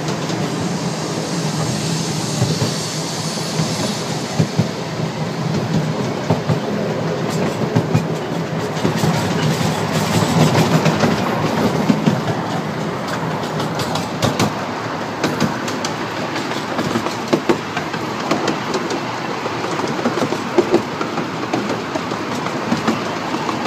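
Small narrow-gauge steam train running along its track, heard from a passenger car: a steady rumble of wheels on rail with a running, uneven clatter of clicks as the wheels cross rail joints.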